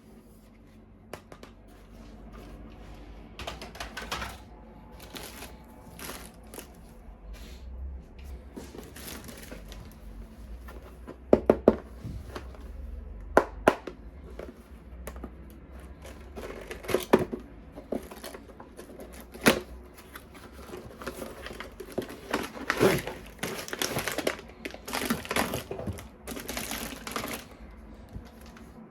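Hard plastic toy parts and packaging being handled: scattered sharp clicks and snaps, with rustling plastic crinkles building in the second half.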